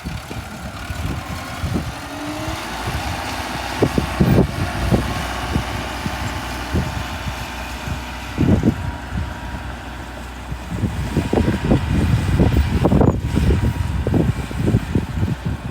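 Heavy diesel earthmoving machinery running steadily, with irregular low thuds and buffeting that grow frequent in the second half.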